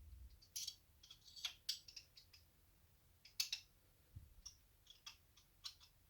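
Faint, scattered light metallic clicks of a small hex wrench working the cooling-head screws on a Losi 3.4 nitro engine, with a stubborn screw not wanting to come loose.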